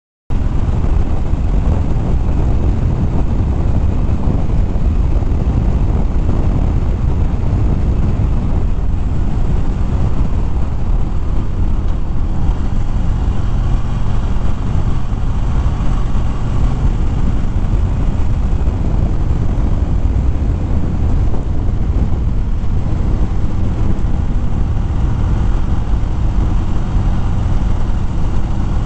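A 2013 Harley-Davidson Fat Bob ridden at steady road speed: wind rushing over the helmet microphone, with the V-twin engine running underneath.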